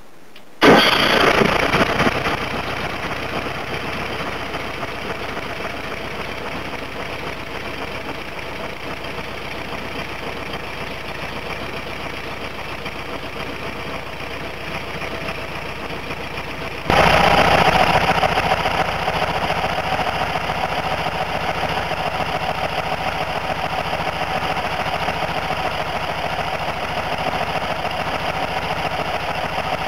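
1970 VW Westfalia bus's air-cooled flat-four engine starting from cold, catching about half a second in and settling into a steady idle. About 17 s in it abruptly gets louder and stays so.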